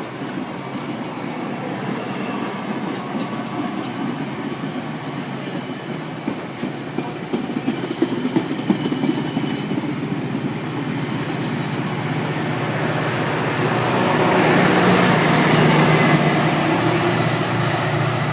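Metra commuter train rolling out of the station, wheels clacking over the rail joints with a steady low hum underneath. It gets louder toward the end.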